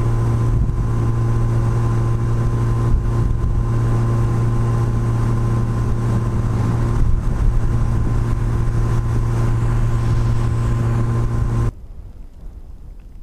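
Yamaha FJR1300's inline-four engine running at a steady highway cruise, one constant drone with wind rush over it. It cuts off suddenly near the end, leaving only quieter wind noise.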